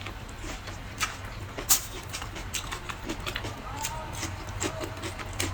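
Close-miked eating sounds: wet chewing and mouth clicks, with a few sharper clicks about one and almost two seconds in, over a steady low hum.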